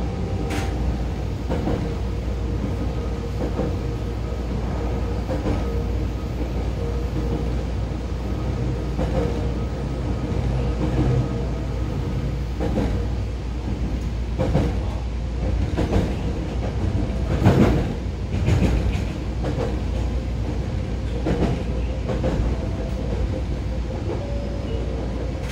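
JR Kyushu 819 series DENCHA electric train running at a steady pace, heard from inside the car. A continuous rumble of wheels on rail carries a faint steady whine and scattered clacks over rail joints, with the loudest knocks a little after the middle.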